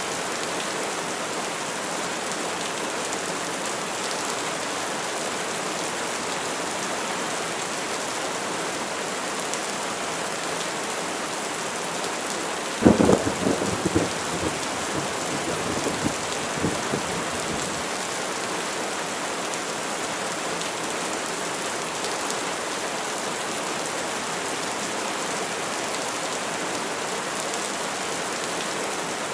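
Steady heavy rain hissing on surfaces, with a sudden crack of thunder about halfway through that rolls on in a few rumbling bursts for several seconds before fading back into the rain.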